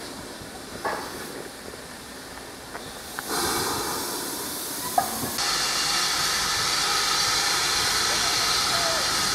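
A train giving off a loud, steady hiss of escaping steam or compressed air that starts about three seconds in and grows stronger and higher about two seconds later. A few sharp clicks sound before and during it.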